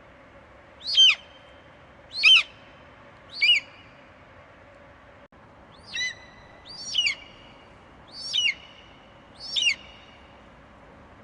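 Eagle screeching: seven short, shrill calls about a second apart, each falling steeply in pitch, with a short pause midway through the series.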